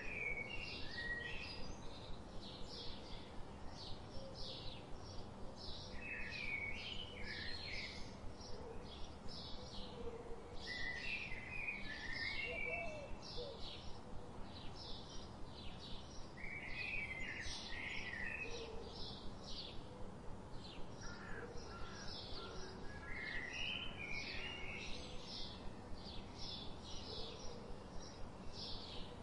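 Birds singing: a short high chirp repeated about twice a second, with a lower warbled phrase every five seconds or so, over a faint steady background hiss.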